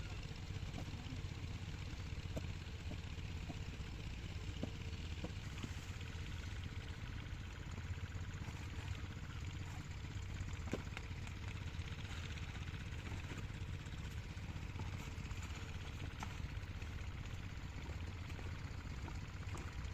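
Single-cylinder 8 hp diesel pumpset engine running steadily, with a few faint clicks over it.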